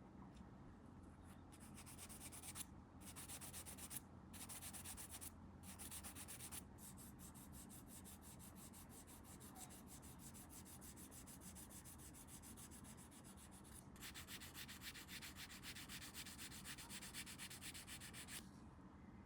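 Hand sanding a small plastic model-kit part with quick back-and-forth strokes: four short spells, then a softer steady stretch, then a louder spell that stops suddenly near the end.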